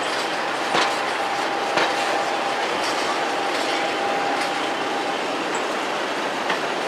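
Train running along the track, its wheels clicking over rail joints about once a second amid a steady rumble and hiss. A thin, steady whine rides over it and fades out about five seconds in.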